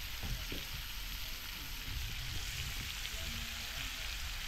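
Curry-seasoned crayfish frying in a pan, a steady crackling sizzle, with a light knock near the start.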